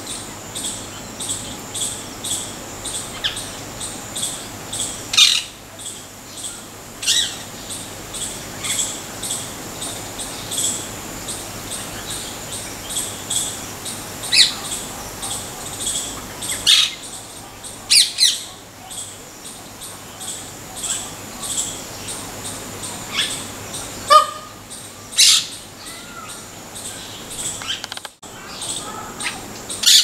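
Small birds chirping: a high chirp repeated about three times a second, with louder sharp calls breaking in now and then.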